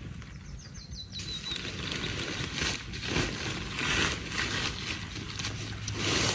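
Small bird calling near the start, a quick run of high notes stepping down in pitch. Then rustling and scraping of gear being handled, with several louder bursts.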